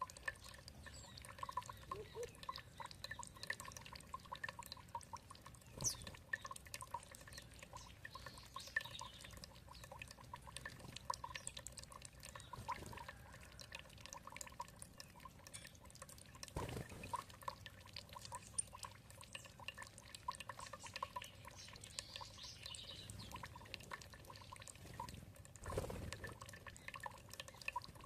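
Water trickling and dripping, a dense patter of small drops, with faint bird calls here and there.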